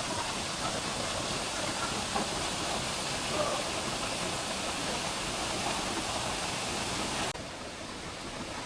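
Steady rushing noise with no clear pitch, dropping abruptly to a slightly quieter hiss about seven seconds in.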